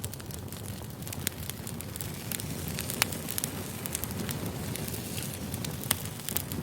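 Campfire crackling: a steady low rumble of burning wood with sharp pops and snaps at irregular intervals, the loudest pop about three seconds in.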